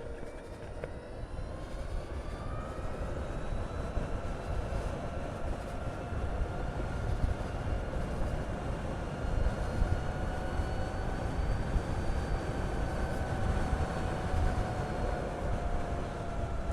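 Harley-Davidson LiveWire electric motorcycle under way: its motor whine rises in pitch over the first few seconds, then holds fairly steady. Heavy wind rumble on the helmet-mounted microphone runs underneath.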